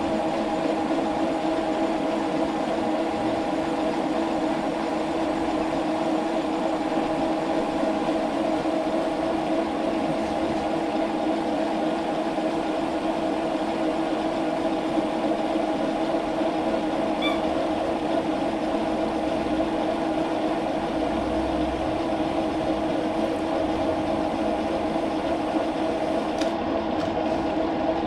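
Metal lathe running steadily with a constant mechanical hum while turning a steel thread insert down to half an inch; it is switched off and starts to wind down at the very end.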